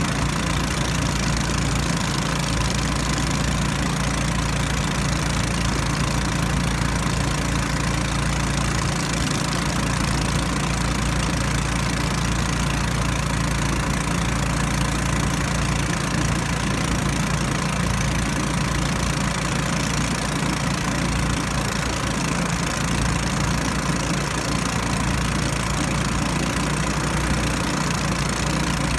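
Small outboard motor of a Li River tourist raft running steadily at an even speed.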